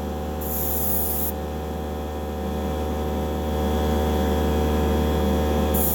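Airbrush spraying paint in short hisses: one from about half a second in lasting under a second, and another starting just at the end. A steady electric hum runs underneath.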